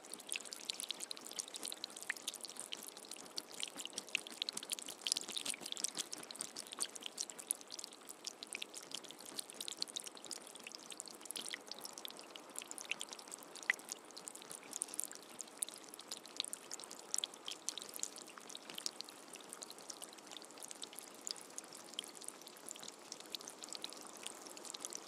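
Steady rain falling: a dense patter of many small drops.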